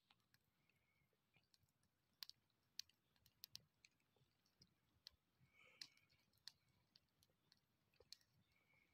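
Near silence broken by faint, irregular sharp clicks, about a dozen spread over the stretch.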